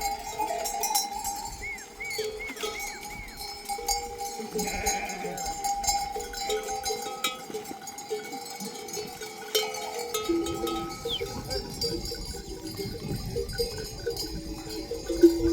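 Bells worn by a flock of sheep and goats clanking and ringing as the animals move, many bells at once.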